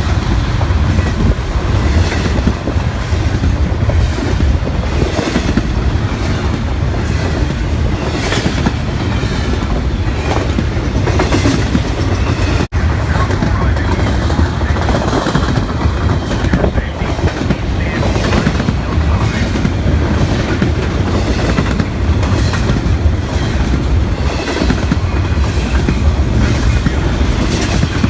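Train running on the rails: a steady loud rumble with wheels clicking over rail joints.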